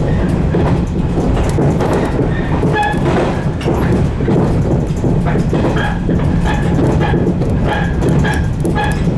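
115-series electric train running along the line, heard from the driver's cab: a steady rumble of motors and wheels with short, irregular clicks and brief ringing tones from the wheels and rails.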